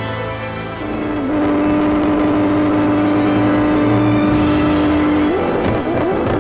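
A car engine held at high revs at a steady pitch, then revving up and down near the end, with background music underneath.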